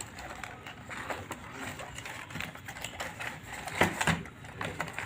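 Handling noises as a parcel is unpacked: scattered light clicks, taps and rustling, with a sharper knock about four seconds in.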